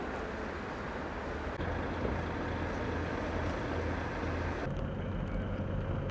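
Vehicle engines running under steady outdoor noise, with a low hum that grows louder about a second and a half in; the sound changes abruptly about three-quarters of the way through.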